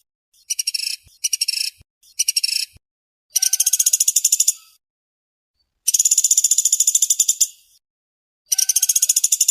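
Woodpecker giving fast, tightly packed rattling calls of high notes, in bursts of one to two seconds: three short bursts, then three longer ones.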